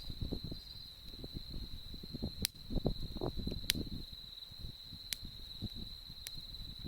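A wood campfire crackling, with several sharp pops from the burning wood. Under it runs a steady high trill of an autumn insect such as a cricket.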